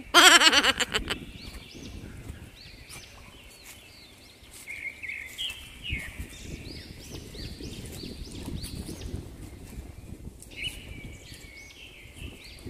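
Birds chirping and calling: many short high chirps repeating throughout, opened by one loud harsh call about a second long. Low rumbling noise runs underneath from about four seconds in.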